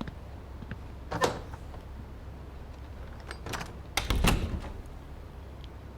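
A few knocks and clatters over a steady low hum: one about a second in, then a louder cluster of several knocks near four seconds in.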